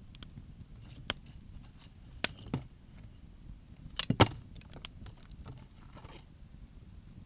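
Wood fire crackling, with scattered sharp snaps and pops and a cluster of louder cracks about four seconds in.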